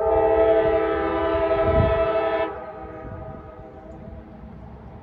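Diesel locomotive air horn sounding one long chord-like blast that stops sharply after about two and a half seconds, a fainter note hanging on for about a second more, over a low wind rumble.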